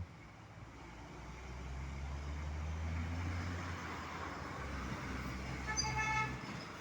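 Scania truck's diesel engine running with a low drone that swells and fades as it passes, and a short horn toot about six seconds in.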